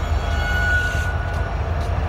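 A long train rolling past with a steady low rumble, and a brief high wheel squeal lasting about a second.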